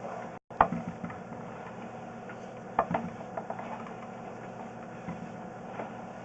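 Sewer inspection camera being pushed down a drain line: sharp knocks and clicks from the push cable and reel, loudest about half a second in and near three seconds in, over a steady mechanical hum.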